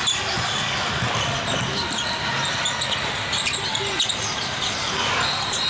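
A basketball bouncing on a gym court during a game, a run of short knocks over steady background voices and noise in a large hall. A thin high steady tone sets in near the end.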